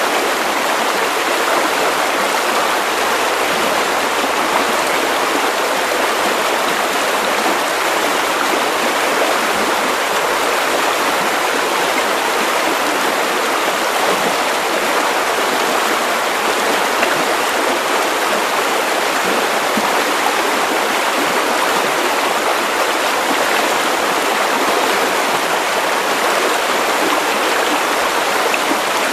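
Steady white noise: an even, unchanging hiss with little bass and no breaks or variation.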